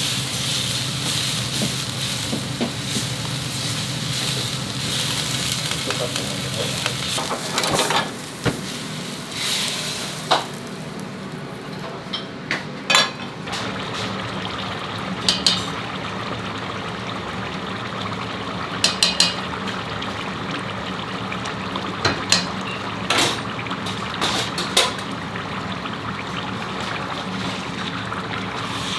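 Food frying and sizzling in a pan. The sizzle drops to a softer hiss about a third of the way in, and a utensil knocks and scrapes against the pan a dozen or so times after that.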